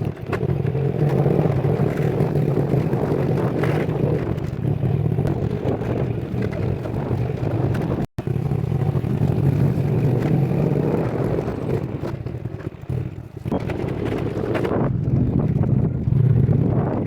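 A vehicle's engine running steadily while driving, with road noise; the sound cuts out suddenly for a moment about halfway through.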